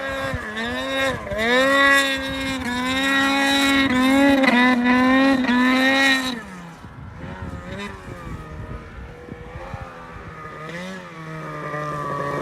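Snowmobile engine revving high with a wavering pitch for about six seconds, then dropping back to a lower, quieter run.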